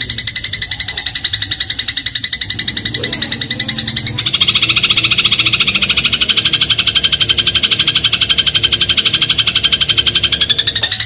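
Eurasian tree sparrow (burung gereja) giving a long, fast, rattling trill, an even stream of rapid high pulses. About four seconds in it drops suddenly to a lower pitch, then slowly climbs back up near the end.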